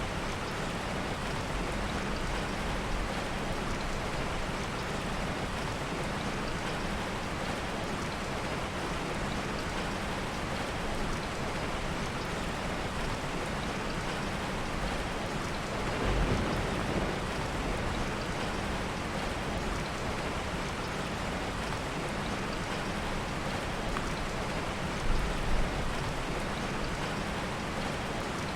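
Steady heavy rain, a dense even hiss. It swells briefly a little past halfway, and there are two short low thumps near the end.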